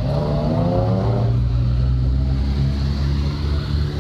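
Car engine revving as a car accelerates past, its pitch rising over about the first second, then steady engine running from the slow line of cars.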